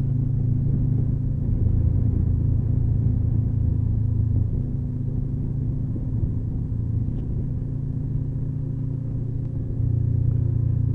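Motorcycle engine running at steady revs while riding, a low even drone that eases off a little about four seconds in and picks up again near the end.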